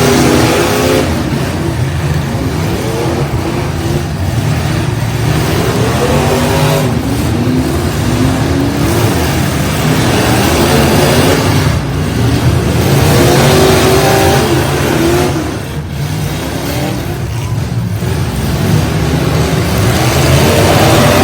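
Demolition derby truck engines revving hard over and over, their pitch climbing and dropping repeatedly over a constant loud rumble.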